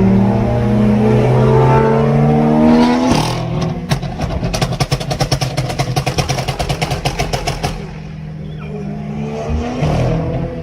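Car engine accelerating hard, its note climbing for about three seconds, then on lift-off the exhaust crackles and pops in a rapid string for several seconds: a 'pops and bangs' overrun tune. Near the end the engine note rises again.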